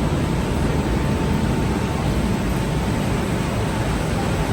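Tea-processing machinery running with a steady mechanical drone and hiss, and a faint steady whine.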